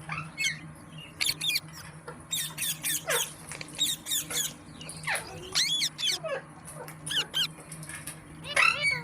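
Parrot calling: a run of short, sharp squawks and chirps, several sweeping steeply down in pitch, a few a second with brief gaps between.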